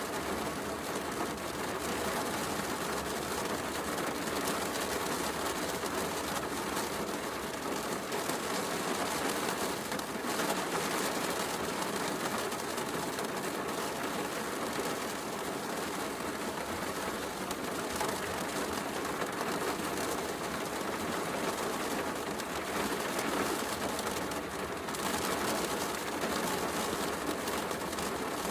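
Steady heavy rain mixed with a fireplace crackling softly.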